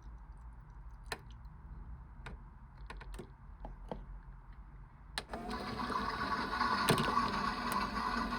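Theo Klein toy washing machine in its wash cycle: a few light clicks and ticks over a low hum, then about five seconds in its small motor starts up suddenly and runs steadily, a mechanical whir with water in the drum.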